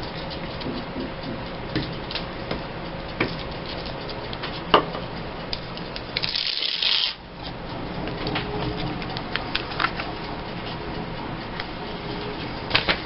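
Paper and craft pieces being handled on a table: scattered light taps and clicks, with a brief scratchy rasp lasting about a second just past the middle.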